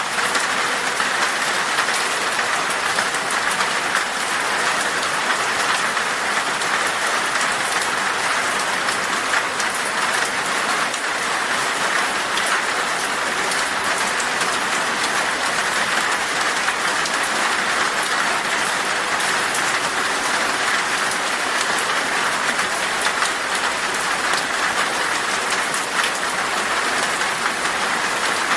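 Heavy rain beating steadily on a glass pane, a dense even patter of drops with no let-up.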